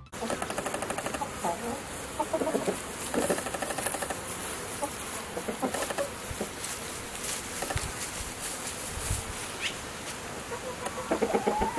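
Chickens clucking, with short rapid calls throughout; near the end a rooster begins to crow.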